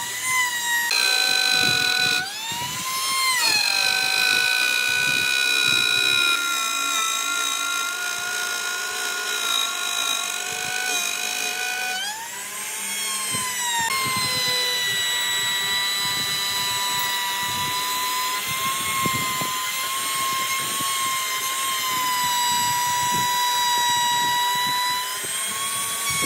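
High-speed electric power tool motor whining steadily, its pitch sagging and recovering twice as it is loaded and eased off in the wood.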